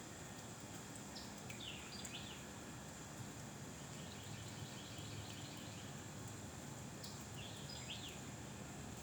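Faint outdoor ambience of steady low wind noise with a steady high thin tone. A small bird sings two short descending phrases, about a second and a half in and again near eight seconds, with a run of quick repeated high notes in between.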